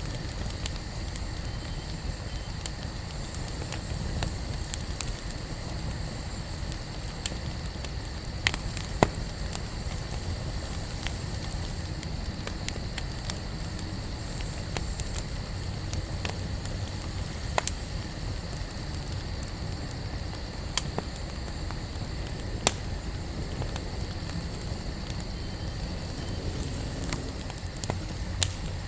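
Wood campfire burning: a steady low rumble and hiss of the flames, with sharp crackles and pops from the wood every few seconds.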